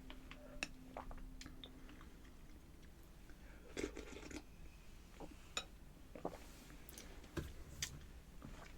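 A person chewing food close to the microphone, with scattered crisp crunches and wet mouth clicks, a few louder bites about four seconds in and again near the end.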